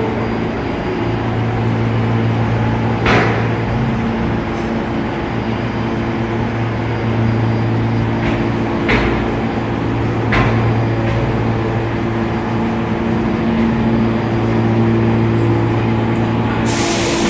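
R46 subway train standing at the platform with its equipment humming steadily, broken by a few sharp clicks. A loud hiss starts suddenly near the end.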